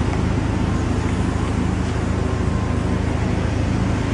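A car engine idling steadily, an even low hum with a faint hiss over it.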